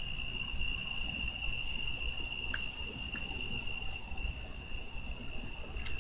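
Crickets trilling steadily on one continuous high note, over a low background rumble, with a faint click about two and a half seconds in.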